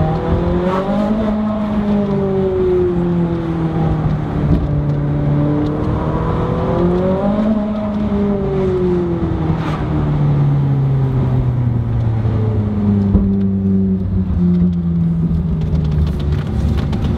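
Ferrari 458 Spider's V8 heard from inside the cabin through the Armytrix titanium exhaust with its valves open. Twice the engine note rises under acceleration and falls back as the throttle eases, then it runs lower and steady and starts to rise again near the end.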